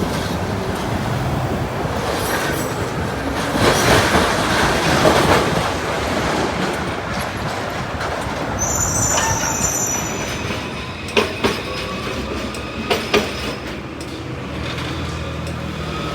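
Tram running on street track, a steady rumble with a high wheel squeal about halfway through, followed by a few sharp clicks from the wheels and rails.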